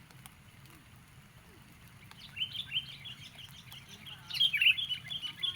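Sooty-headed bulbul calling: a quick run of chirps starting about two seconds in, loudest toward the end, over a faint low steady hum.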